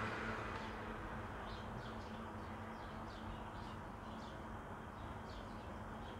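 Small birds chirping: many short, high chirps, each falling in pitch, repeating irregularly over a steady low background.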